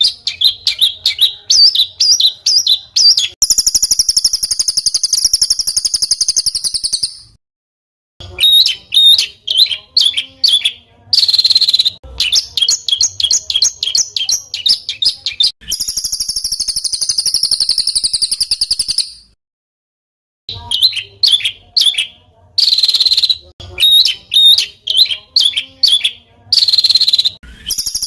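Songbird song for training competition birds: fast, harsh 'tembakan' phrases of sharp repeated high notes alternating with long, close-set buzzy rolls, each lasting a few seconds. The song cuts out completely twice, for about a second each time.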